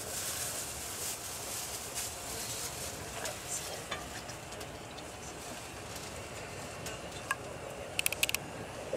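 Steady rolling and rushing noise heard inside the cabin of a moving passenger train, with a quick run of sharp clicks near the end.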